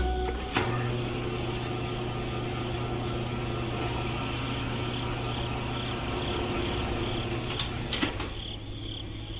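A small electric motor running steadily with a constant hum, with a couple of sharp clicks.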